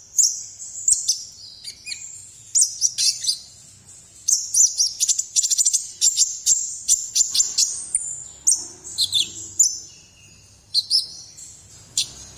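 Konin songbird singing vigorously: quick runs of high, sharp chirps and trills, broken by short pauses about eight and ten seconds in.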